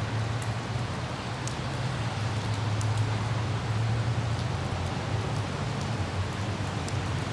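Car driving in light rain: a steady low rumble of engine and road under an even hiss of rain, with scattered faint ticks of raindrops.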